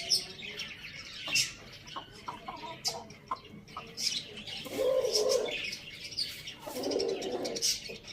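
Chickens feeding: many short high chirps throughout, with a few sharp clicks, and two low, soft calls of about a second each, around five and seven seconds in.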